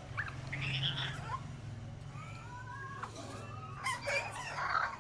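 Several birds calling, some with gliding calls and some harsher squawks near the end, over a steady low hum.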